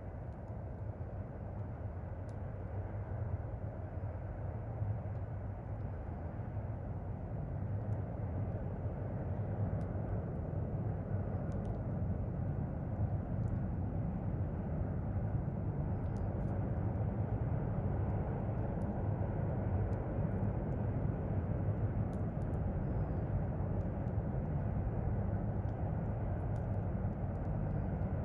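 A distant vehicle's low, steady rumble grows gradually louder, as if slowly approaching. Faint scattered crackles sound over it.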